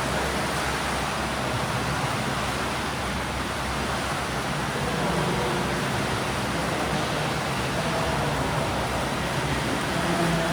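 Steady wash of noise from a swimming pool during training: water splashing and churning as swimmers do breaststroke drills.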